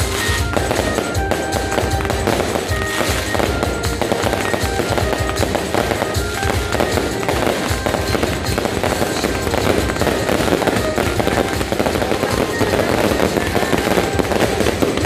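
Fireworks going off in a dense, unbroken run of bangs and crackles, with music heard underneath.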